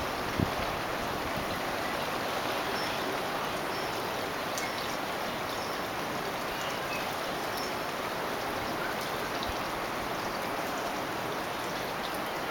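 Steady, even rushing of a wind storm, with a few faint ticks.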